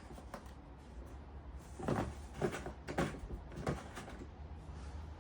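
A few sharp knocks and clicks of hard parts and packaging being handled and set down, over a low steady hum.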